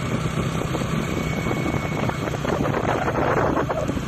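A small engine running steadily, with wind buffeting the microphone.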